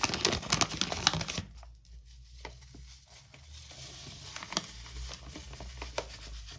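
Crinkling of a baking-mix packet with light clicks and taps as it is handled, busiest in the first second and a half, then sparse taps.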